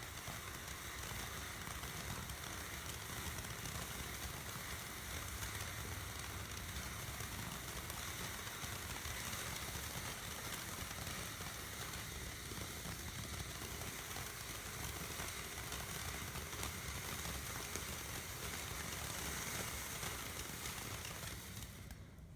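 Phantom Fireworks Grucci Brooklyn Bridge Show fountain, a low-noise consumer firework fountain, spraying sparks with a steady hiss. The hiss cuts off near the end as the fountain burns out.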